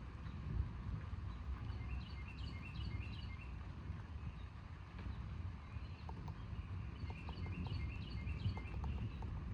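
Birds chirping in two runs of short repeated notes, about two seconds in and again around seven seconds, over a steady low background rumble.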